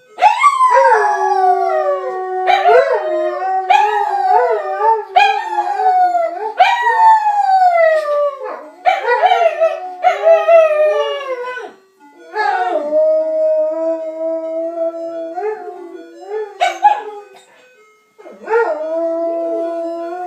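Two dogs, a saluki and a Chinese crested, howling along to a Swedish ice cream van's jingle, in long falling howls in several bouts with short breaks between them.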